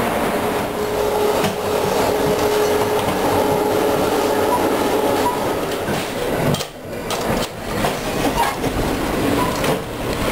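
Steady rumble and hum of an Amtrak passenger train with a few light clanks. The rumble briefly drops about two-thirds of the way in, then continues as the noise heard inside a coach.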